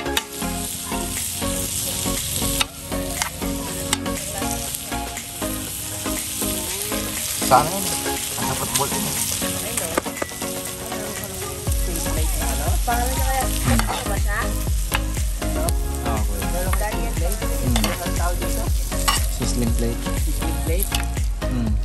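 Chopped pork sisig frying in bubbling fat on a hot sizzling plate over a charcoal fire, with a metal spoon scraping and stirring it against the plate. A low steady rumble joins about halfway through.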